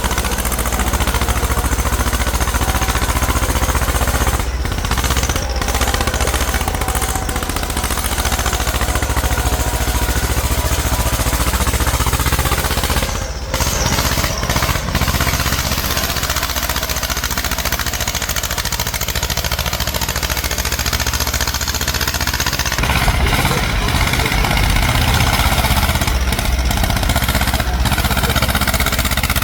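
Tractor engine running steadily under load, shifting in tone a little past three-quarters of the way through.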